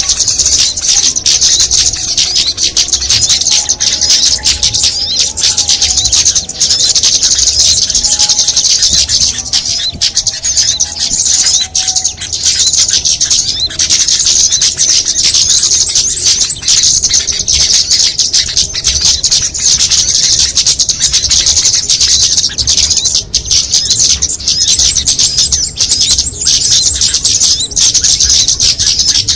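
Bird-lure recording of small songbirds: a dense, continuous chatter of many rapid, high-pitched chirps and trills, played loud to draw small birds in.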